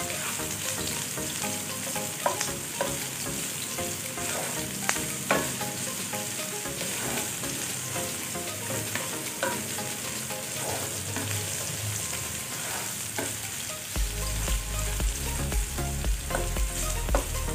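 Sliced onion and garlic sizzling in hot oil in a nonstick frying pan, softening toward translucent. A plastic spatula stirs them, with scattered scrapes and taps against the pan.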